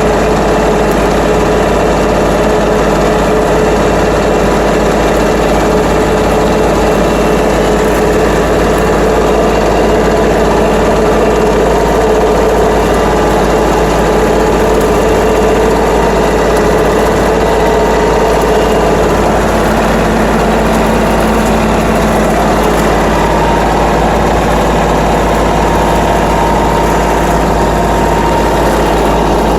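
A tractor engine running steadily while driving a bush hog rotary cutter mowing brush, with a slight change in tone about twenty seconds in.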